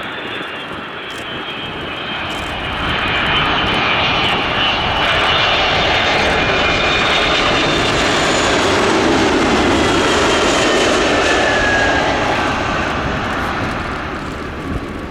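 Boeing KC-46A Pegasus tanker's twin turbofan engines as the jet flies past on arrival: a jet rush that swells about three seconds in, holds, then eases near the end, with a high whine that falls in pitch as it passes.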